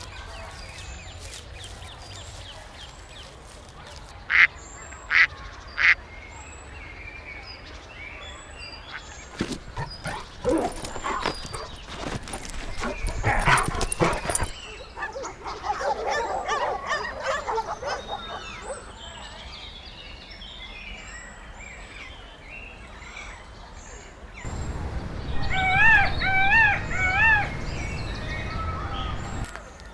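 A series of different animal calls, one after another: three short high calls, then a cluster of harsher calls with clicks, then a louder wavering call repeated several times near the end.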